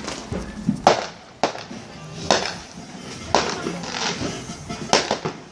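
Fireworks going off: about six sharp bangs at irregular intervals, the last two close together near the end.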